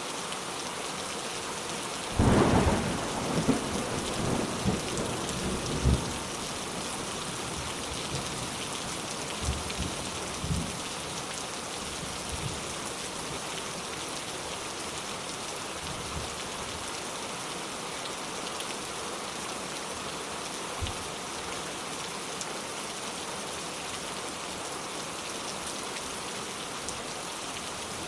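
Steady rain falling, with a thunderclap about two seconds in that rumbles on for several seconds, followed by a few fainter distant rumbles.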